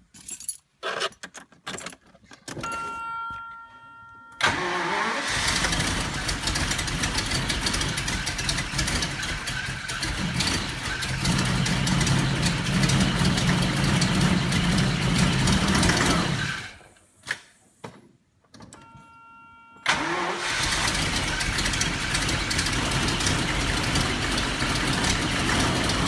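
1990 Jaguar XJ-S engine started twice, each time running for several seconds before it is switched off, the engine suffering a severe misfire. Before each start come a few clicks and a short, steady electronic warning tone.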